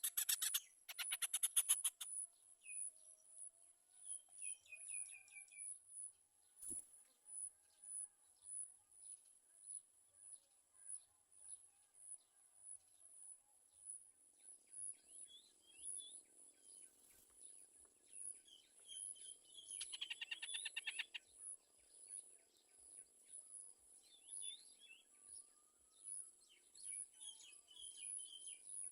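Yellow-vented bulbuls chirping, scattered short calls around the nest, over a steady high-pitched pulsing tone. A burst of rapid buzzy ticking comes about twenty seconds in.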